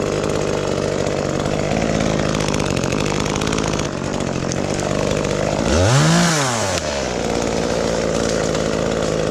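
Chainsaw engine running steadily, with one quick rev up and back down about six seconds in.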